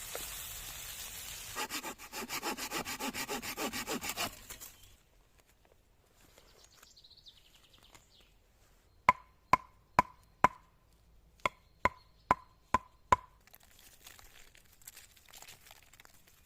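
Hand saw cutting through wood, about four quick, even strokes a second, stopping after a few seconds. After a pause, nine sharp knocks with a short ringing after each, in a run of four and then a run of five; these are the loudest sounds.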